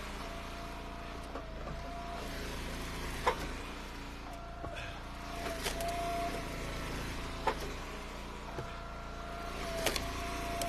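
Hydraulic wood splitter's engine running steadily while ash rounds are split, with a pitched whine that comes and goes under load. Three sharp knocks of split ash wood come a few seconds apart.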